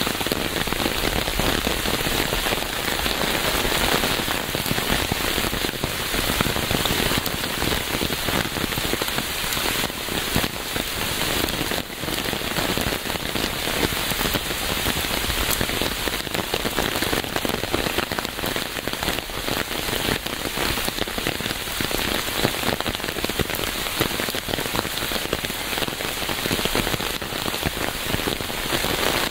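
Steady rain falling and pattering on a surface, a dense even hiss of many small drop impacts.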